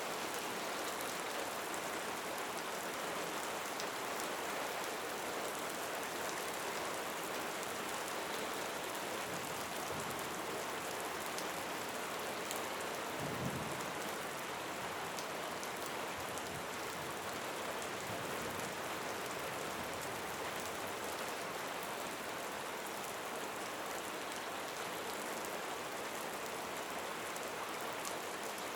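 Steady rain falling, with scattered individual drops ticking. There is a brief low thump about thirteen seconds in.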